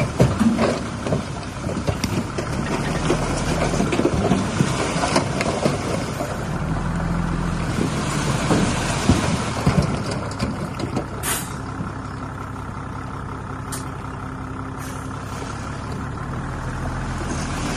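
Heavy earthmoving machinery working: a diesel engine running steadily with scattered clanks and knocks, and a short sharp hiss about eleven seconds in.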